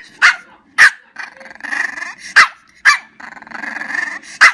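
Dog growling in long rough grumbles broken by about five short, sharp barks: the sounds of an unhappy dog.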